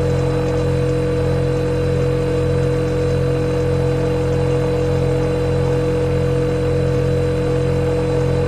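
Refrigerator compressor running with a steady, unchanging hum, a clear mid-pitched tone over a low drone.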